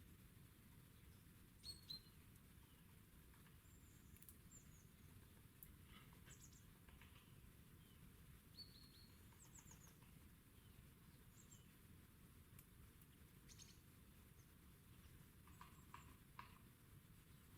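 Faint high chirps and short calls of small garden birds, scattered throughout, with a few soft taps about two seconds in and again near the end, over a low steady rumble.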